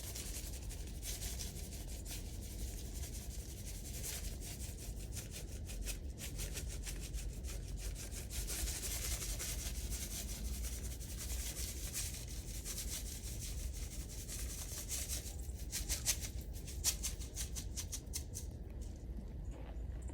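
Continuous gritty scraping and crunching in snow, dense with fine crackles, thinning out near the end.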